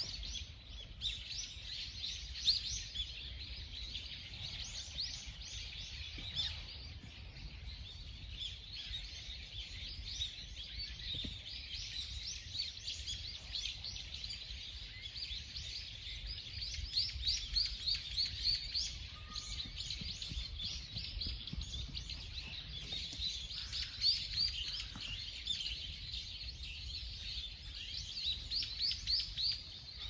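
Small birds chirping and twittering continuously in quick, high, overlapping calls, over a steady low background rumble.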